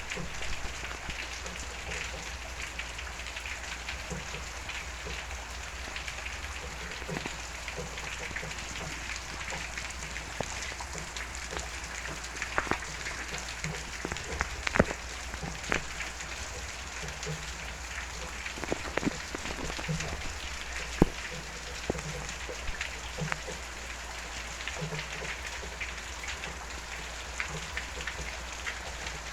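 Steady rain falling, with sharp drips and taps scattered through it; one louder drop lands about two-thirds of the way in.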